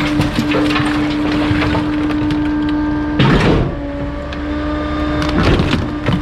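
Bulky-waste garbage truck's compactor crushing items: a steady hydraulic hum under scattered cracking and crunching, with a louder crunch a little past halfway as the hum briefly cuts out, then resumes.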